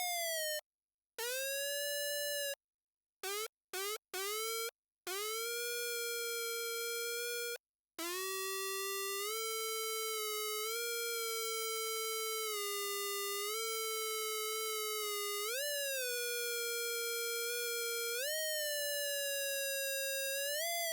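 Electronic tone from an amplified pickup coil dipped in water. The tone cuts in and out several times in the first few seconds, then holds steady, stepping up in pitch with short sliding glides a few times toward the end.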